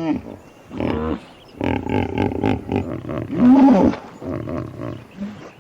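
Hippopotamus calling: a series of about five deep, pitched calls, the loudest about three and a half seconds in.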